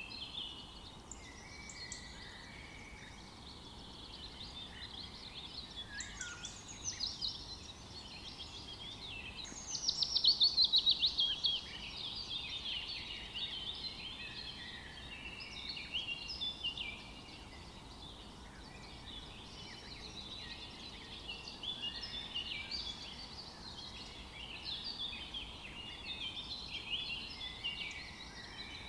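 Forest birds singing and calling together, many overlapping chirps and short trills over a faint steady hiss. About ten seconds in, one bird gives a loud, fast trill of falling notes lasting about two seconds.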